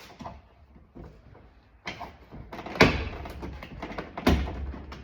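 A few sharp clicks and knocks of hard plastic parts being worked loose from a car door panel, the loudest a little past halfway, over faint handling noise.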